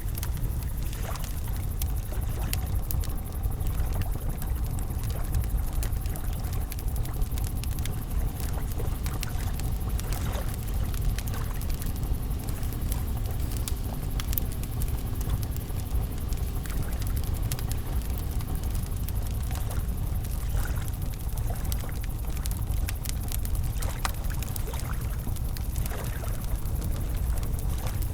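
Campfire crackling, with scattered sharp pops and snaps over a steady low rumble from the flowing river.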